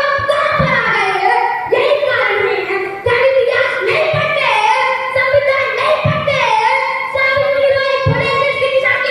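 A child singing a verse with a high, sliding melody and long held notes. Short low thumps sound underneath every second or so.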